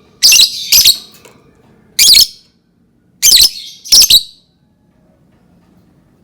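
Lovebird giving five loud, shrill calls in quick groups: two in the first second, one at about two seconds, and two more around three and four seconds, then it falls silent.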